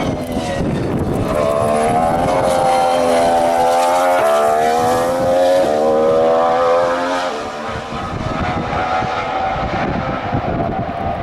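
2014 Formula One car's 1.6-litre turbocharged V6 hybrid engine accelerating past, its pitch climbing and then dropping sharply twice as it upshifts, before fading away.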